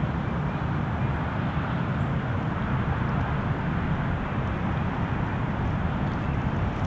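Gusty wind buffeting the microphone: a steady low rumble.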